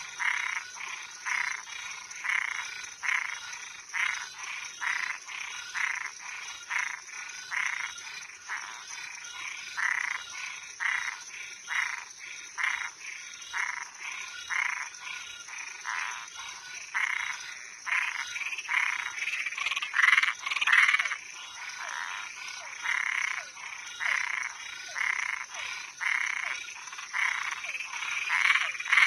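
Frogs calling at night, short calls repeated about twice a second, over a steady high-pitched tone. A couple of louder calls come about two-thirds of the way through.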